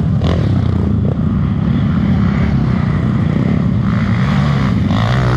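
Trail motorcycle engine running steadily, loud and close.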